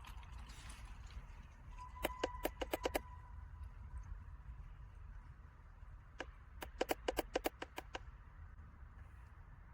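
Two quick runs of sharp clicks, about six or seven each: one about two seconds in and another from about six to eight seconds in. A faint steady high tone sounds under the first run.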